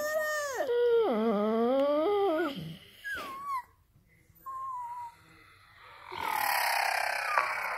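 Pit bull whining and howling in one drawn-out call that bends up and down in pitch and lasts about two and a half seconds. Two short high squeaks follow, then a longer, noisier falling sound near the end.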